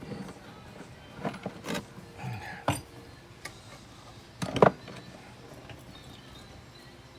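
A few irregular clinks and knocks of small metal tools and pieces being handled and set down on a jeweler's workbench; the loudest knock comes about four and a half seconds in.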